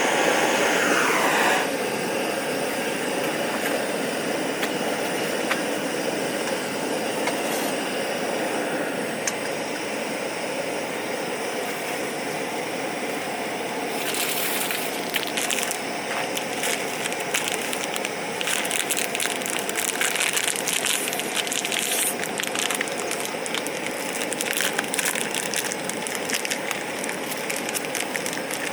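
A river running steadily, with a dense crackling of small clicks over it from about halfway through.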